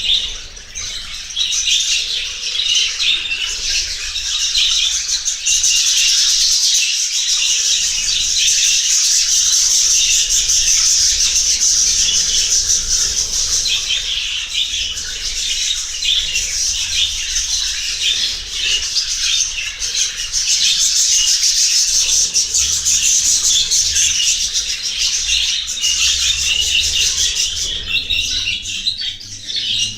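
A flock of lovebirds chattering and squawking together, a dense, continuous high-pitched din with no break.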